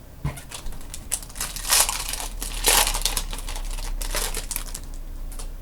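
Topps Chrome trading-card pack wrapper being torn open and crinkled, a run of uneven rustles and crackles that is loudest through the middle.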